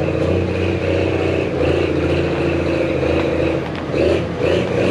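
A large engine running steadily, holding a fairly even pitch with slight dips.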